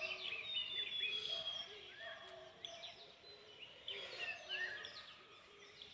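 A chorus of hill-forest birds: many chirps and sliding notes high up, one long falling whistle in the first second and a half, and a low hooting note repeated over and over underneath, which a birder on the spot takes for a cuckoo.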